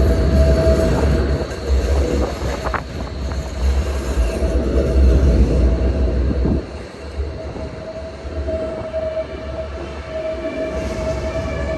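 Tram wheels squealing on the rails: a steady, high-frequency squeal over the heavy rumble of the passing tram. The rumble drops away about two-thirds of the way through while the squeal carries on.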